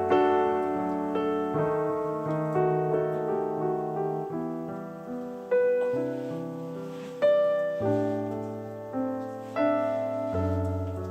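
Slow, gentle background piano music: single notes and chords struck every second or so over held bass notes, each fading away after it is played.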